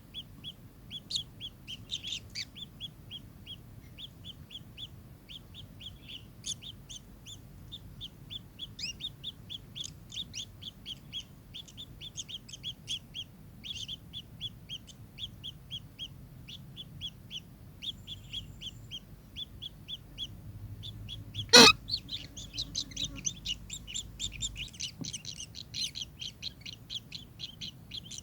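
Kingfisher calling: a long run of short, high, chattering notes repeated several times a second, growing denser and louder in the last few seconds. A single sharp click about two-thirds of the way in is the loudest sound.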